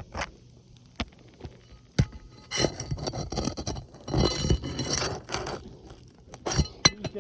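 Hand work on an asphalt shingle roof: a few sharp knocks, then repeated bursts of scraping as shingles and tools are worked against the roof.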